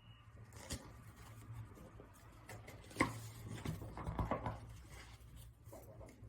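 Faint handling noise in a small room: soft rustling and a few short knocks, the loudest about three seconds in, over a low steady hum.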